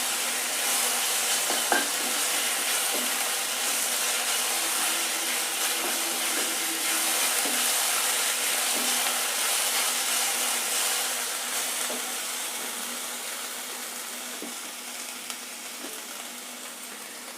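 Ginger-garlic paste and sliced onions sizzling in hot oil in a kadai, fried until the paste loses its raw smell. There is a single light knock about two seconds in, and the sizzle grows quieter over the last few seconds.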